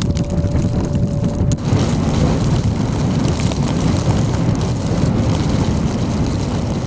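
Strong gusty wind rumbling and buffeting against the microphone in a snowstorm. A faint steady tone fades out about a second and a half in, and the wind noise then grows broader and a little louder.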